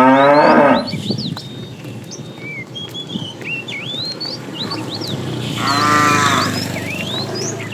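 Cattle mooing: a loud moo right at the start that rises in pitch, and a second moo about six seconds in. Short high chirps continue throughout.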